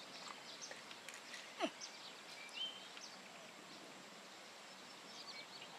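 Faint open-air background with scattered short, high bird chirps, and one call sliding downward in pitch about a second and a half in.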